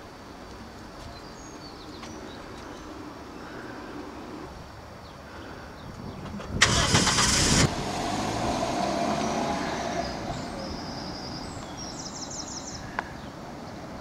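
A car's engine is started about halfway through, with a loud burst of about a second, then runs and fades as the car drives away.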